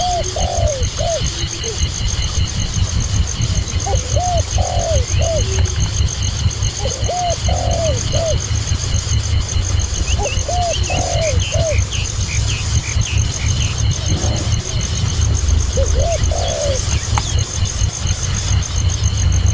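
A dove cooing: short phrases of two or three arched notes, repeated five times every three to four seconds, with a few faint higher chirps in between. A steady low rumble runs underneath.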